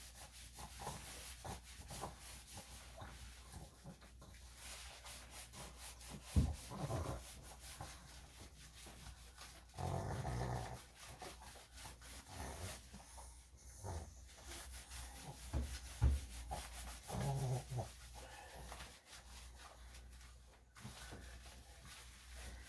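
A Yorkshire terrier being groomed: scratchy rubbing and handling noise with many small ticks, two sharp thumps, and a few short low sounds from the dog about 10 and 17 seconds in.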